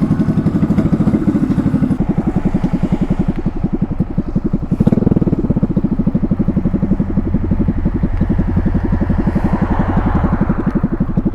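Small motorcycle engine running under way with a steady, rapid firing beat. The revs rise briefly about five seconds in and again near the end.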